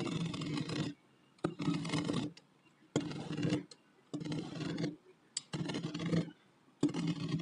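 Repeated crunchy scraping strokes of a blade or tool slicing through kinetic sand, about six strokes, each under a second long, coming roughly every second and a half.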